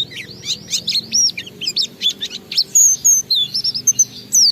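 Pleci (white-eye, Zosterops) singing a fast, unbroken warbling stream of quick high chirps and sweeping whistles, the long 'ngalas' style of song used to set other pleci singing.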